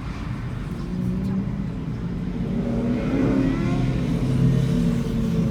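A car engine revving and accelerating, getting louder from about three seconds in.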